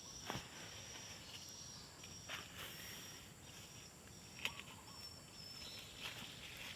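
Quiet outdoor ambience: an insect chirring in a thin, high-pitched tone in broken stretches, with a few short soft taps.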